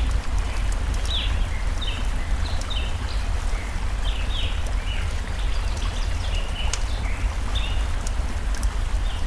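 Steady rush of a forest stream with a deep rumble, over which small birds sing repeated short, falling chirps, with the occasional sharp crackle of a burning campfire.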